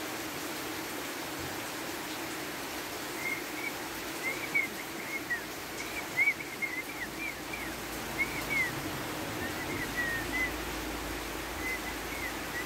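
Steady rain falling, with a small bird chirping in quick, short high notes from about three seconds in until the end.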